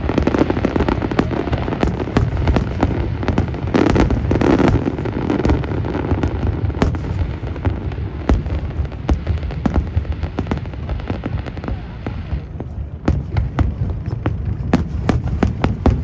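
Fireworks display: a steady barrage of booming shell bursts and sharp crackling reports with a low rumble. Near the end the barrage thins to separate cracks.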